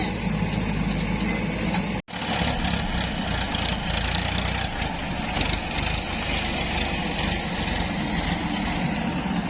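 Heavy diesel engine of a backhoe loader or tractor running steadily, with a very short break in the sound about two seconds in.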